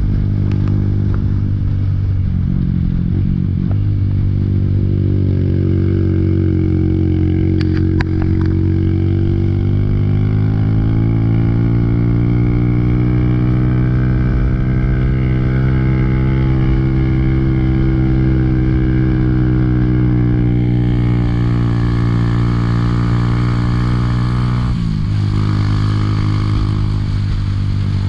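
Motorcycle engine running under way. The engine note rises in pitch twice in the first half, holds steady, then dips briefly near the end before picking up again.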